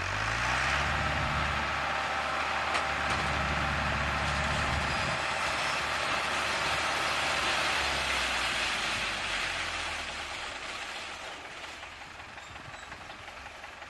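Tractor engine driving a corn harvester, running loud and steady with the dense whirring noise of the harvesting machinery. The engine revs up at the start and eases off after about ten seconds.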